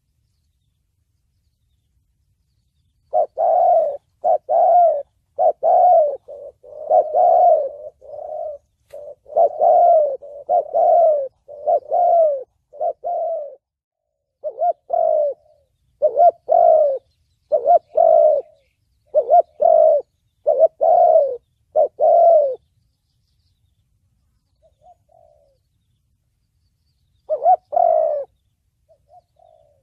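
Spotted dove cooing in the 'thổ bầu' voice, a run of repeated low coos in phrases, the kind of call played to lure wild doves for trapping. It starts about three seconds in, goes quiet a little after the middle apart from a couple of faint notes, and picks up again briefly near the end.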